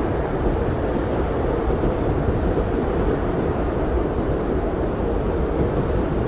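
Blizzard wind blowing steadily: a deep, even rush of noise with no gusts, breaks or separate sounds.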